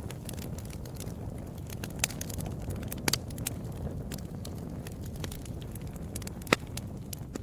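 Wood fire in a fireplace, crackling steadily over a low rumble of flames, with irregular sharp pops; the loudest snap comes about six and a half seconds in.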